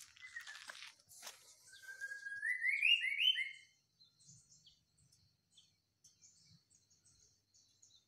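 A bird singing a loud rising run of whistled notes about two seconds in, followed by faint, scattered high chirps.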